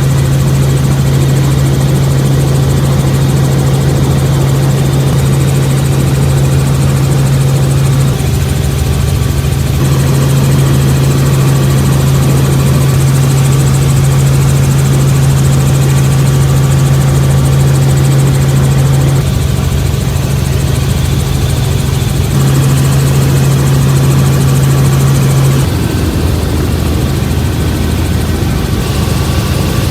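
Helicopter in flight heard from inside the cabin: a loud, steady low drone from the rotor and engine. Its level and tone shift abruptly a few times.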